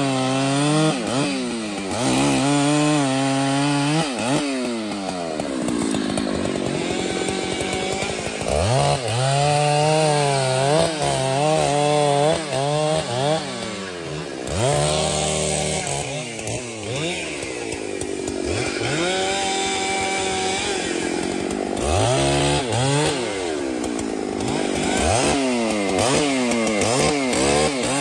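Chainsaw running while felling a tree, its engine pitch repeatedly dipping and climbing under load.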